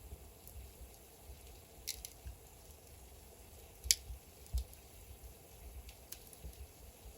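Wood fire burning in a fireplace: scattered sharp crackles and pops over a faint steady hiss, with one loud pop about four seconds in.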